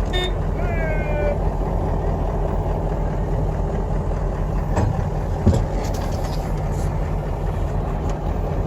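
Vehicle engine running with a steady low drone, with a dense rush of noise over it. There are a few short gliding high calls in the first second and a half, and a single knock about five and a half seconds in.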